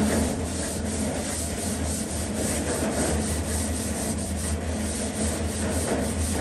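Continuous sanding: abrasive rubbing steadily over a surface being prepared for paint, over a steady low hum.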